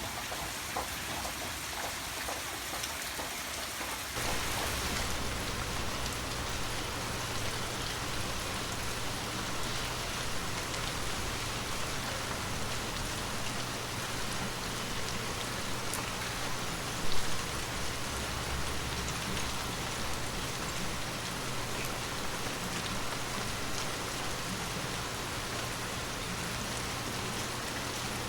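Steady rain falling on a surface, growing fuller and louder about four seconds in, with one brief louder knock a little past the middle.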